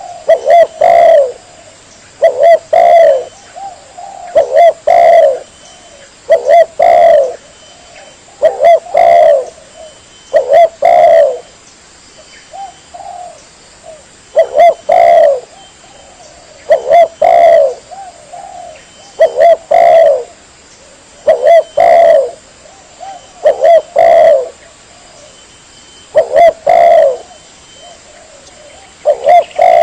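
Spotted dove (tekukur) cooing over and over, a loud lure call: short phrases of two or three low coos repeat about every two seconds, with a few brief pauses.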